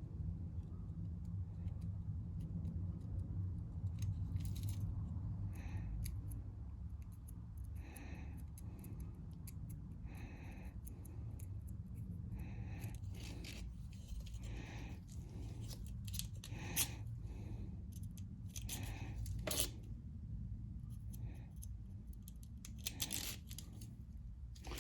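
A sharp, pointed pick scraping and poking at the small metal passages of a lawn mower carburetor part to clear clogged holes. It makes irregular short scratches with a few light metallic clicks, over a steady low hum.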